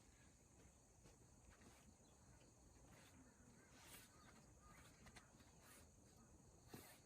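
Near silence: faint background hiss with a few soft, scattered clicks, the clearest about four seconds in and just before the end.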